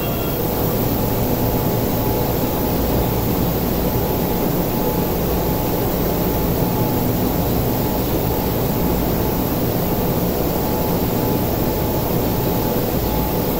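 Steady hum and whir of a Tokyu 5000 series train standing at an underground platform, its air conditioning and on-board equipment running, with a faint steady whine above the low rumble.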